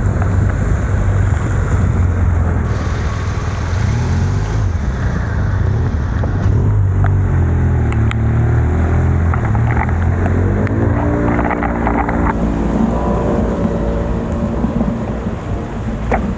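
Heavy wind rumble on the microphone of a camera riding along on a bicycle in rain, with traffic around it. Between about seven and thirteen seconds in, a motor vehicle's engine rises in pitch as it speeds up nearby.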